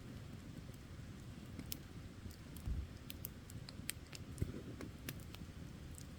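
Wood campfire crackling: scattered sharp pops and snaps, about a dozen at irregular moments, over a steady low rumble.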